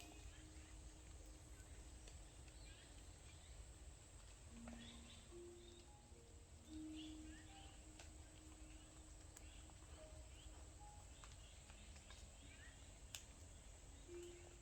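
Near silence: faint forest ambience with soft, scattered bird chirps.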